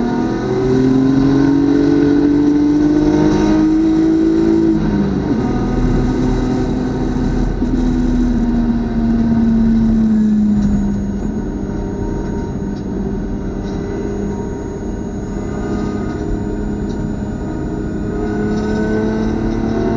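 BMW club race car's engine under hard acceleration, climbing in pitch, with an upshift about five seconds in, then pulling again. About halfway through it drops to a lower, quieter note off the throttle for several seconds before revving up again near the end.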